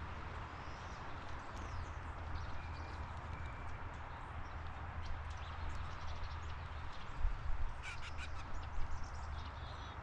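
Outdoor backyard ambience: a steady background hum with scattered short bird chirps, and a few sharp taps near the end.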